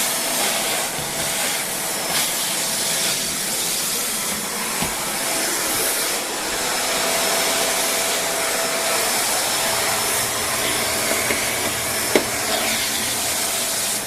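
Shark Rotator Speed Lift-Away upright vacuum running steadily, its suction drawn through the hose and crevice tool along a baseboard, with a steady whine under the rush of air. A single sharp tap comes about twelve seconds in.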